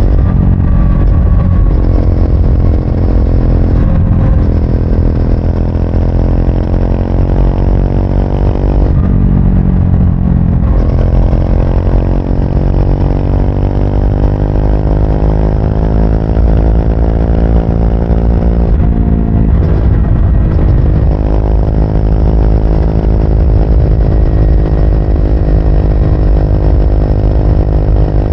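2024 Triumph Speed 400's single-cylinder engine and exhaust running under way, a steady engine note whose pitch breaks and resets several times, around 4, 10 and 19 seconds in.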